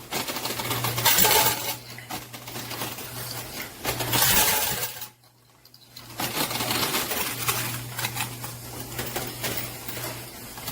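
Quarters clinking and rattling as they drop and slide in a coin pusher arcade machine, with louder spills about a second in and about four seconds in and a steady low hum underneath. The sound drops out for about a second midway.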